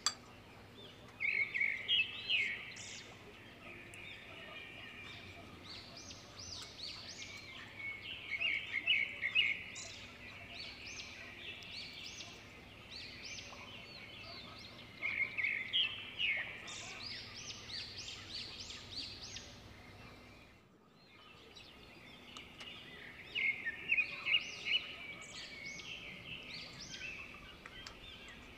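Birds chirping in recurring bursts of quick, high calls every several seconds, over a faint steady hum.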